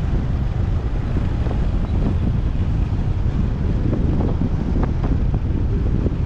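Wind buffeting the microphone on a moving motorcycle, a steady low rumble, with the motorcycle's engine and traffic noise underneath.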